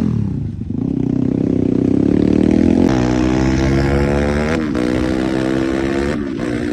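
250 cc dirt bike engine revving up over about two seconds, then running at a steady pitch, with a brief dip in pitch about four and a half seconds in.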